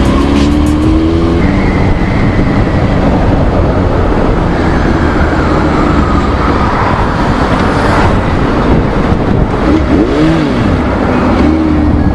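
Honda CBR600RR's inline-four engine under way, its pitch climbing over the first second and a half as it accelerates, then buried in a steady roar of wind and road noise. About ten seconds in the revs rise and fall briefly, then settle to a steady note near the end.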